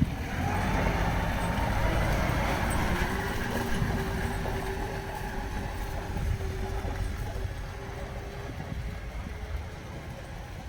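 City street traffic: a motor vehicle running close by, its engine tone holding for several seconds, then fading toward the end.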